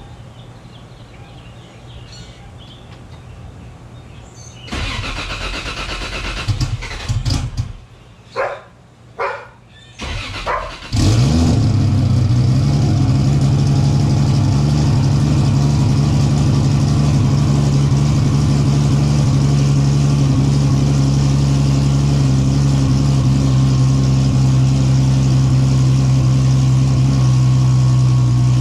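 Lexus GS car engine starting: a few short bursts of sound, then the engine catches about eleven seconds in and settles into a steady idle.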